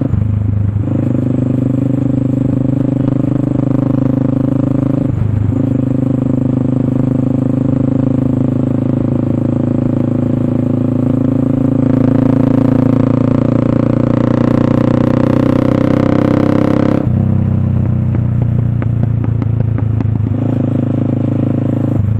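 Motorstar Cafe 400 motorcycle's single-cylinder engine running through an SC Project slip-on exhaust, steady under way with a short break about a second in and another about five seconds in. Later the engine builds over several seconds, then drops off suddenly.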